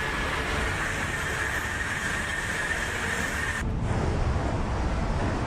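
High-speed train running at speed: a rushing noise with a steady high whine, which cuts abruptly about three and a half seconds in to a deeper rumble.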